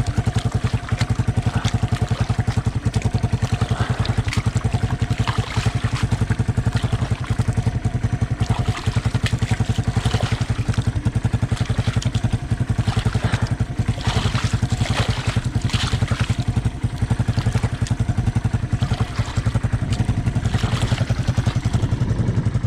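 Honda ATC 200M three-wheeler's single-cylinder four-stroke engine running steadily at a low, even speed, its firing pulses evenly spaced throughout.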